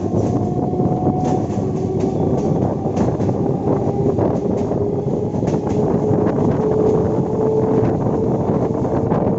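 Electric multiple-unit local train running: a steady loud rumble with a faint traction-motor whine that slowly rises in pitch, and scattered clicks from the wheels and track.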